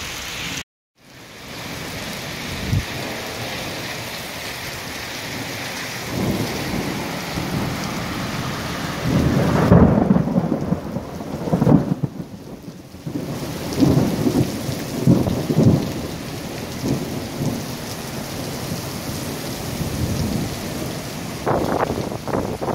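Heavy rain pouring steadily in a thunderstorm, with thunder rumbling in several rolls, the loudest about ten seconds in and more following over the next few seconds and again near the end. A brief dropout cuts the sound just under a second in.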